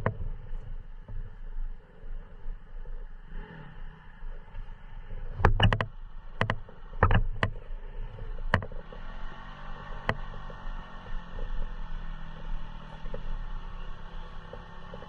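Dirt bike engine running steadily in the background, with a handful of sharp knocks about midway.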